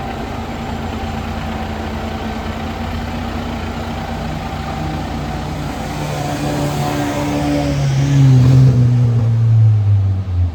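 Fire truck diesel engine running steadily, then revving up in the second half and winding back down in pitch near the end.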